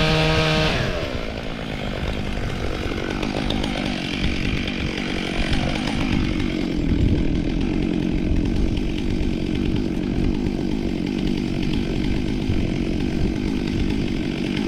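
Chainsaw engine at full throttle, which bogs down about a second in as the chain bites into the ash log, then runs steadily under load, cutting through the wood.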